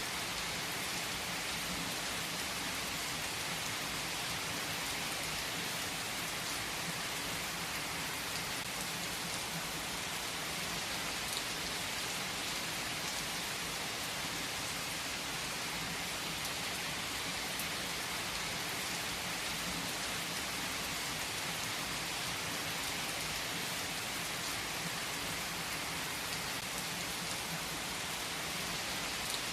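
Steady rain falling on a surface: an even, unbroken hiss of drops that holds at the same level throughout.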